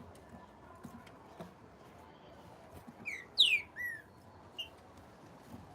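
A bird's short phrase of three quick whistled notes about three seconds in, the loudest a falling sweep, followed by one short note. Faint ticks run underneath.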